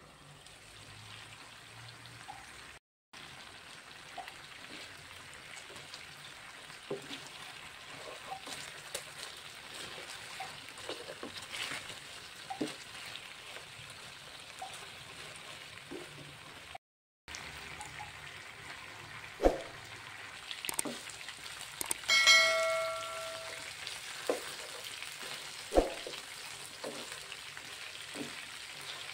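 Chicken adobo pieces sizzling in oil in a frying pan as the braising liquid cooks down and the chicken fries in its own fat, with a spatula scraping and knocking against the pan. A short metallic ring sounds about two-thirds of the way in.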